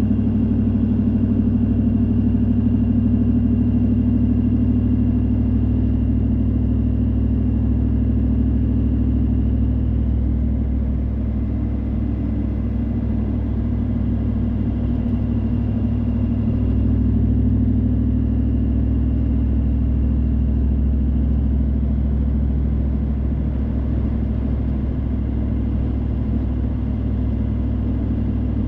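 Steady low car engine and road hum, heard from inside a moving car's cabin, with no marked changes.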